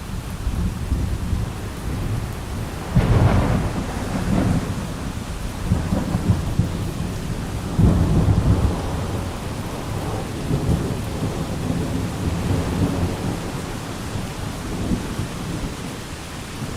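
Thunder rumbling over steady rain, with a louder roll breaking about three seconds in and another about eight seconds in.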